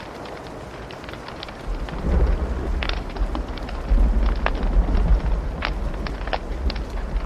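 Wood fire crackling, with sharp pops over a steady hiss. About two seconds in, a deep rumble of thunder rolls in and carries on.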